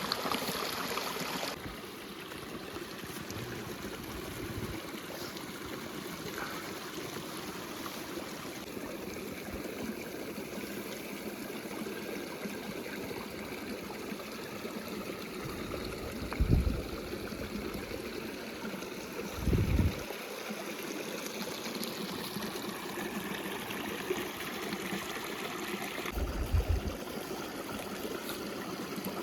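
River water flowing steadily, a continuous rushing and trickling. Three short, dull low thumps break in partway through, twice close together and once near the end.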